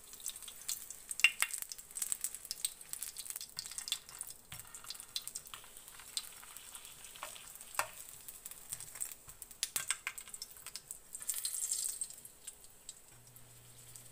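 A dumpling frying in a little oil in a nonstick skillet: the oil sizzles with a steady hiss and many sharp crackling pops, the sizzle growing louder for a moment about eleven seconds in.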